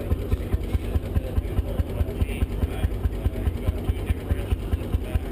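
1921 Lanz Bulldog's 12 hp, 6-litre single-cylinder hot-bulb semi-diesel engine running steadily, with an even, rapid beat of about five or six low thumps a second.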